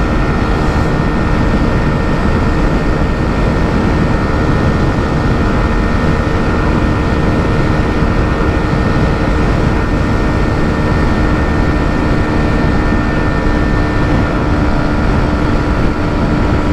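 Hero Xtreme 125R's single-cylinder 125 cc engine running at a steady high pitch, held at its 120 km/h speed limiter, with heavy wind rush over it.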